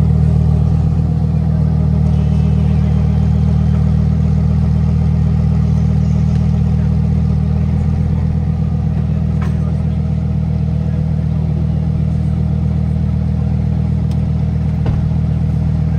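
A car engine idling, a steady deep hum that holds one pitch.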